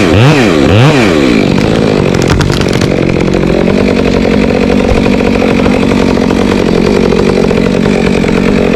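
Gas chainsaw revved up and down in quick blips about twice a second, then running steadily at an even pitch from about three and a half seconds in.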